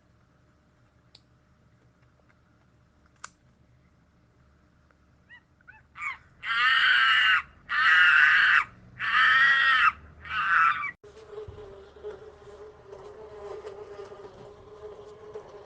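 Four loud animal calls, each about a second long. About halfway through they cut off sharply and give way to a steady insect buzz.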